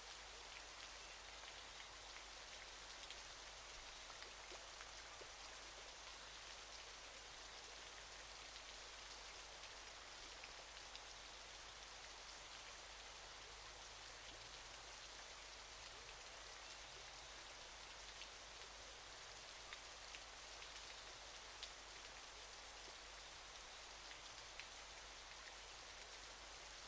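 Waterfall: a faint, steady rush of falling water, sprinkled with small splashing ticks.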